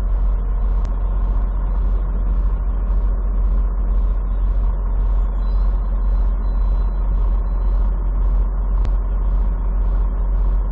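Semi truck running on the road, heard from inside the cab: a steady low engine and road drone, with a faint regular ticking about twice a second above it.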